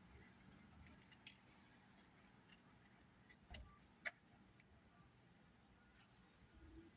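Near silence with a handful of faint, sharp clicks, the loudest about four seconds in.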